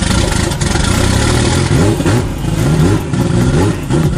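Turbocharged, cammed 2JZ inline-six in a Lexus SC400 running just after start-up. About halfway in, its pitch starts rising and falling in quick repeated surges, about three a second.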